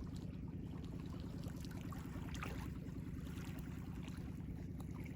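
Ocean waves washing in as a steady low rumble, with light splashing and trickling of water about two to three seconds in.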